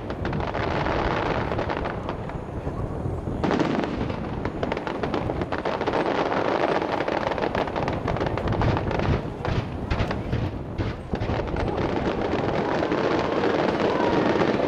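Starmine fireworks barrage: a continuous, rapid volley of shell bursts with deep booms, and from about three and a half seconds in a dense run of sharp crackling reports.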